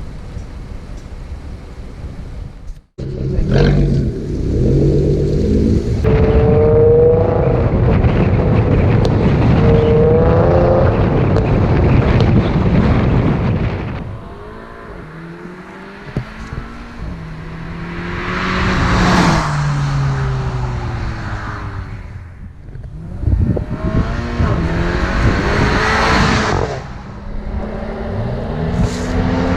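Car engines revving and accelerating, their pitch climbing and dropping through the gears, with louder surges about two-thirds of the way in and again near the end. An abrupt cut about three seconds in.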